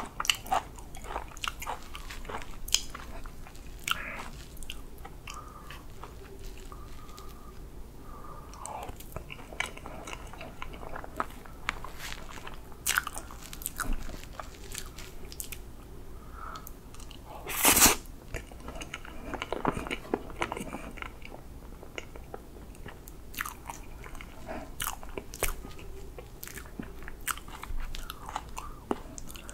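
Close-miked wet chewing and mouth sounds from eating soft whipped-cream chocolate cake: many small lip smacks and clicks, mixed with the soft sounds of a metal fork cutting into the cake. There is one louder sharp noise about eighteen seconds in.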